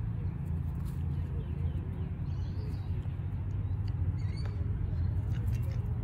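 A steady low rumble, with faint, scattered squeaky chirps from birds.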